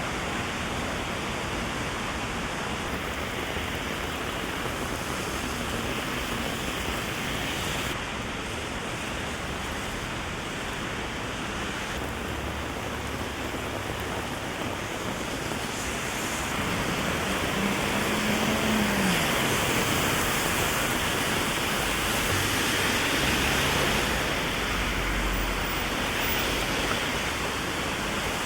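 Heavy rain falling steadily on an umbrella, an even hiss that swells somewhat louder in the middle.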